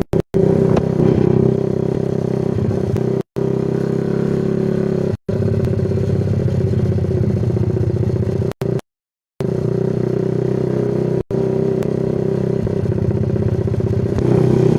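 Yamaha Vixion's single-cylinder four-stroke engine running steadily through a Kou Mahachai aftermarket racing exhaust, a deep even drone. The audio cuts out completely for a moment several times.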